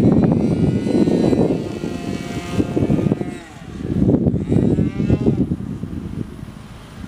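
Two-stroke .46 glow engine of a radio-controlled model airplane in flight, its high whine sliding up and down in pitch twice as the plane passes. Heavy wind buffeting on the microphone is the loudest sound.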